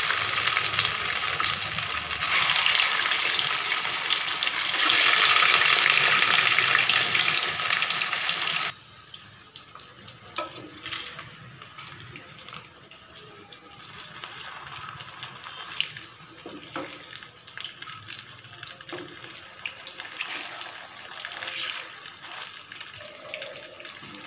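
Soya chaap sizzling loudly in hot oil in an aluminium kadhai as it fries until brown. About a third of the way through, the sizzle drops suddenly to a much quieter level, broken by scattered clicks and scrapes of a wooden spatula turning the pieces against the pan.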